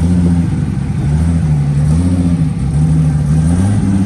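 Toyota Supra Mk4's inline-six engine running at low revs as it pulls in to park, its pitch rising and falling gently.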